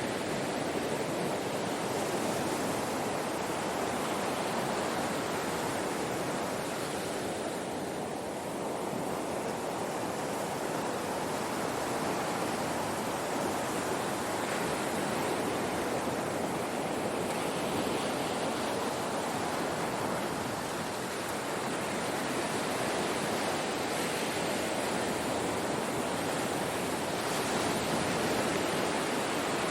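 Ocean waves breaking and washing on a shore: a continuous rush of surf that swells and eases slowly, dipping briefly about a third of the way in and again about two-thirds in.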